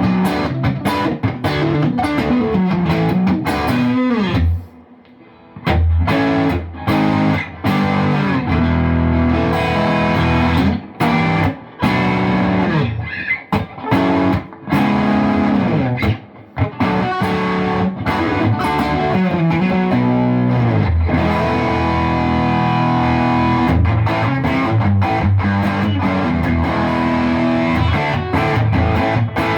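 Electric guitar, a Fender Stratocaster fitted with an HSS loaded pickguard, played through overdrive: a run of riffs and chords with some sliding notes, and a short break about five seconds in.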